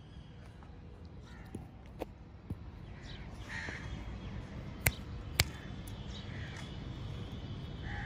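A few short, harsh bird calls, spaced a couple of seconds apart, with several sharp clicks; the loudest two clicks come about half a second apart near the middle.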